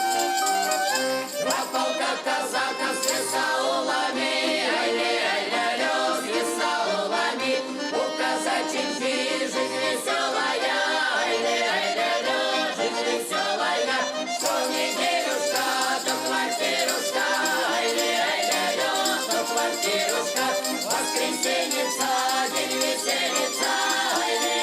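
Russian folk ensemble music: a lively instrumental passage with several pitched instruments over a steady rhythm.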